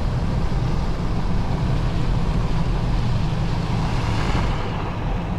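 BMW X5's twin-turbo V8 running steadily under way, with a low drone and tyre and road noise from a snow-covered road, heard inside the cabin.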